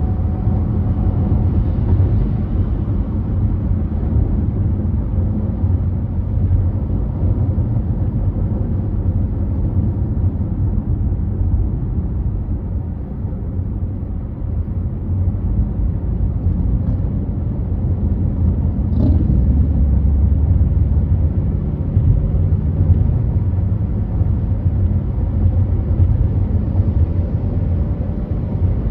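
Car driving at freeway speed: a steady low rumble of road and engine noise.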